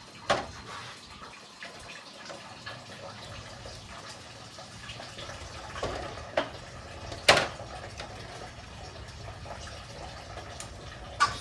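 Engine coolant trickling and dripping from the radiator and hoses of a 1986 Nissan 300ZX, with a few sharp clicks of work on the hoses, the loudest about seven seconds in.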